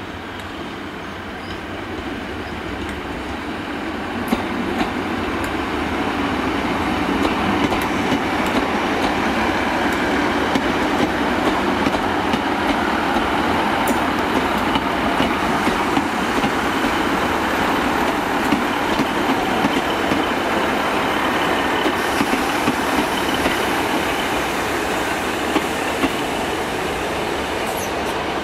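GWR diesel multiple unit running past close by. Its engine and wheel noise grows louder over the first several seconds, then holds steady with regular clicks of the wheels over the rail joints.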